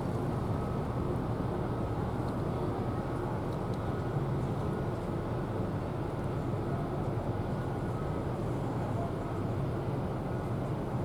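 Steady low outdoor rumble, like distant engines, with a faint high steady tone running through it.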